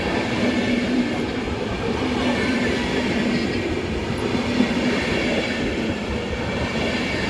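Passenger train hauled by an EU44 electric locomotive rolling into the station, a steady rumble of carriages with wheel clatter and a faint steady tone, and a single sharp click about four and a half seconds in.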